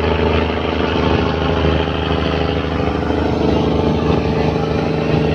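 Fishing boat's engine running steadily at an even speed, a constant hum with a hiss of water and deck noise over it.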